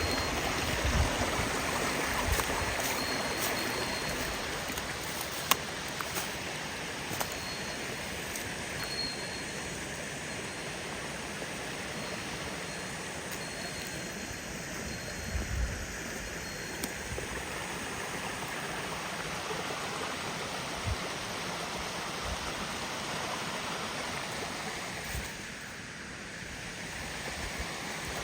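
Rushing water of a waterfall and stream, a steady even noise that dips briefly near the end, with a few low thumps.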